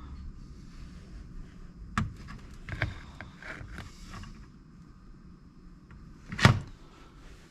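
Small parts being handled: a few clicks and knocks, the loudest a sharp knock about six and a half seconds in, over a low steady rumble.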